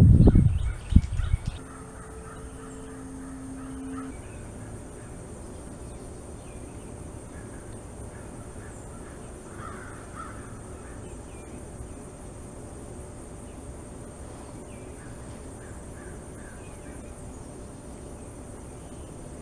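Outdoor background with faint bird calls, crow caws among them, scattered through the middle. A low rumbling fills the first second and a half, and a steady low hum runs for a couple of seconds after it.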